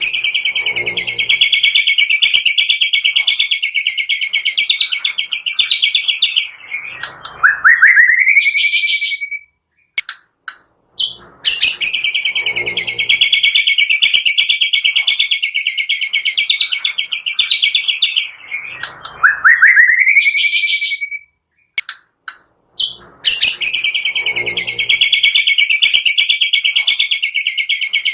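Recorded songbird song used to provoke a caged white-rumped shama: a rapid trill lasting about six seconds, then a short rising whistle ending on a held note. The phrase repeats three times, identically, as a loop.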